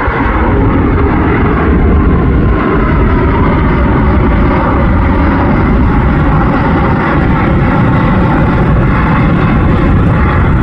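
Jet engines of an Airbus A380-800 at takeoff thrust: a loud, steady rumble.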